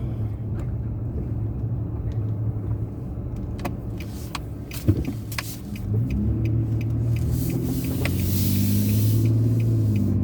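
Nissan Frontier pickup driving, its engine hum and road noise heard from inside the cab. The engine note rises about six seconds in as it picks up speed, with a sharp knock just before that.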